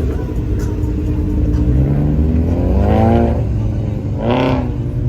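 A car engine running, revving up twice: a longer rise in pitch around the middle and a shorter one near the end.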